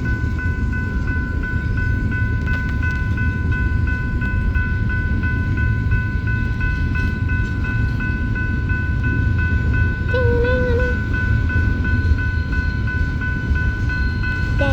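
Freight train rolling past with a heavy, continuous low rumble. Over it, a steady high ringing pulses a few times a second.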